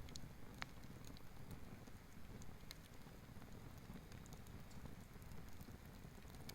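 Faint wood campfire burning, with a low steady rumble and scattered sharp crackles and pops, one louder pop just after the start.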